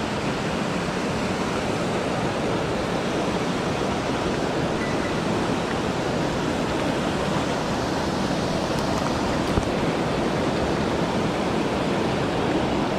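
Mountain stream rushing over rocks, a steady, even sound of running water.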